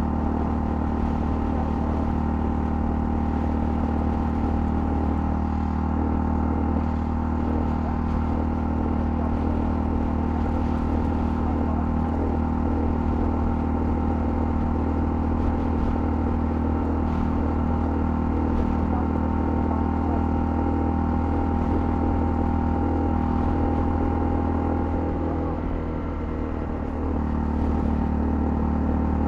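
Honda CL250 single-cylinder engine running steadily at cruising speed, with wind and road noise. About 26 seconds in the engine note eases off briefly, then picks up again.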